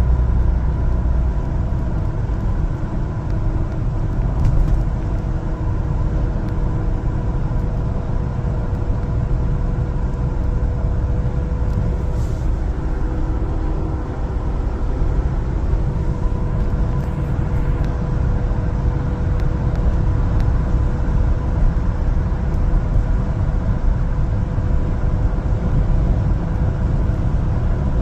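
One-ton LPG cargo truck driving along steadily: a continuous low rumble of engine and road, with a faint steady hum running through it.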